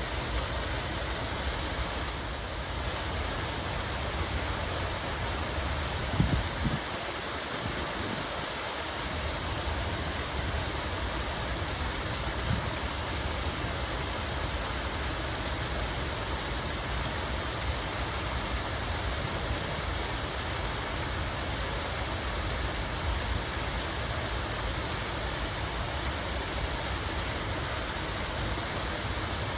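Steady rushing of flowing, splashing water, an even wash of sound with no pauses. A few brief low thumps come about six seconds in and again near twelve seconds.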